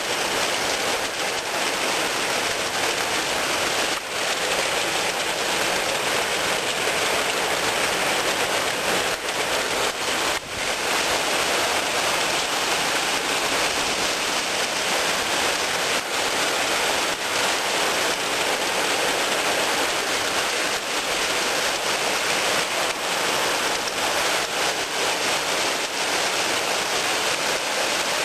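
Heavy rain falling steadily, a dense unbroken hiss of water with a few faint ticks of drops striking something close by.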